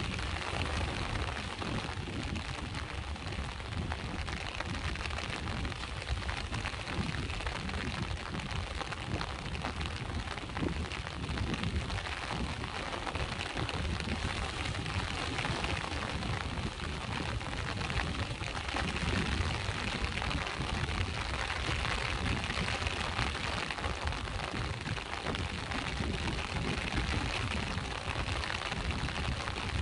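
Rain falling by the sea with surf washing on the shore: a steady hiss of rain over a continuous low rumble of waves.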